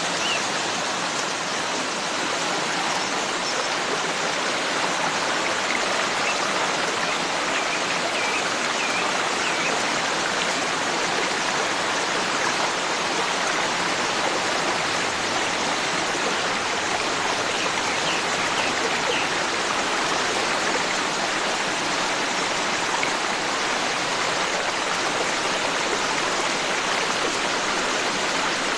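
Forest stream flowing steadily, with a few faint bird chirps over the water a quarter of the way in and again past halfway.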